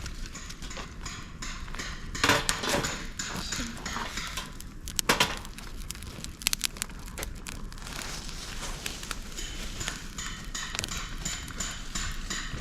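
Fire of dry dead bamboo and twigs crackling in a fire stand, with a steady stream of small ticks and a few louder snaps about two and five seconds in.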